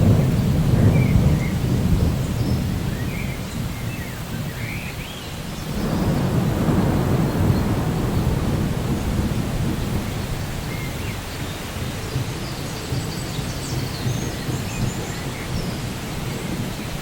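Rolling thunder over steady rainforest rain: one rumble breaks right at the start and another about six seconds in, each dying away slowly. Birds chirp briefly in the background.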